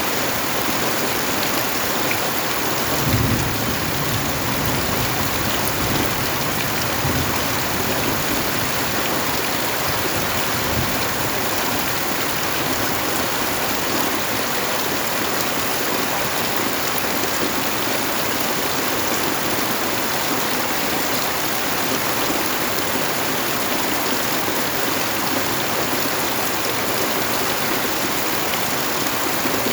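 Steady heavy rain falling, an even unbroken hiss of drops. A brief low thump sounds about three seconds in.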